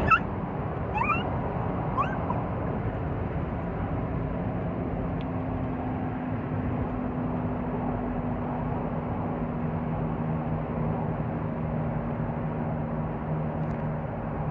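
Toyota Prado's 5VZ-FE 3.4-litre V6 running steadily with road noise, its hum dropping lower about nine seconds in. A few short rising squeaks in the first two seconds.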